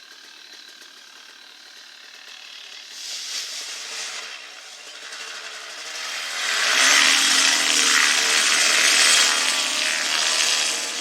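A small engine running, then revving up to a loud, high buzz about six and a half seconds in and holding there.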